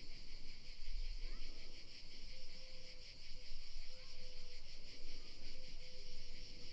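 Steady, dense chorus of insects chirring outdoors, a continuous high buzzing with a fine pulsing texture.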